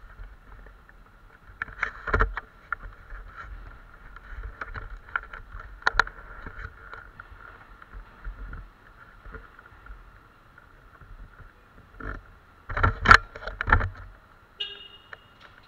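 Bajaj Pulsar NS150 motorcycle being ridden in the rain: steady riding noise with wind and spray on the microphone, broken by irregular knocks and gusts. The strongest are about two seconds in, at six seconds, and a loud cluster around thirteen seconds. A short high beep comes near the end.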